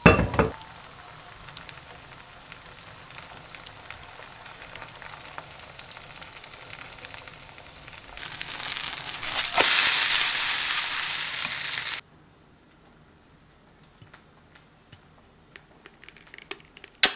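Vegetable pancake batter sizzling in hot oil in a frying pan, opening with a short knock; the sizzle grows much louder about eight seconds in and cuts off suddenly about four seconds later, leaving only a few faint clicks.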